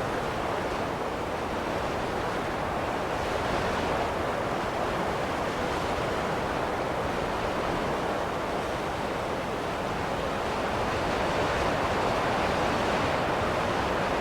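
Steady rushing wind, as in a snowstorm, rising and falling only in slow, gentle swells.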